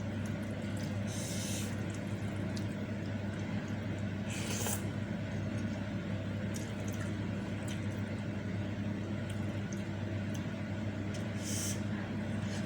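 Eating sounds of meatball soup and noodles: chewing, with three short slurps about a second in, at four and a half seconds and near the end, over a steady low hum.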